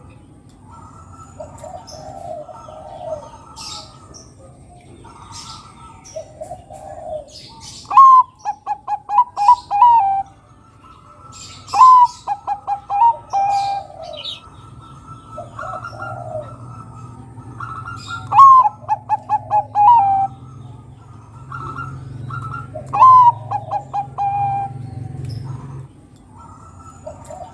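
Bangkok-type zebra dove (perkutut) singing: four loud phrases, each a high opening note followed by a quick run of short coos, with softer, lower cooing in between.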